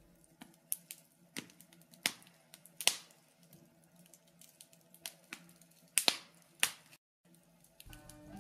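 Wood fire in a fireplace crackling: scattered sharp pops at irregular intervals over a faint hum, the loudest about three seconds in and a close pair about six seconds in. Faint music comes in near the end.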